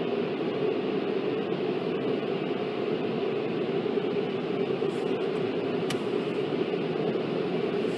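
Steady rushing noise of an automatic car wash's spray and machinery, heard from inside the car's cabin as it rides the conveyor.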